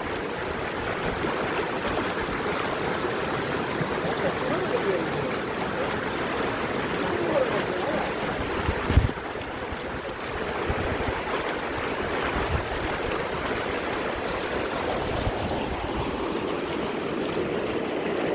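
Mountain stream rushing steadily over rocks, with faint voices in the background and a brief thump about halfway through.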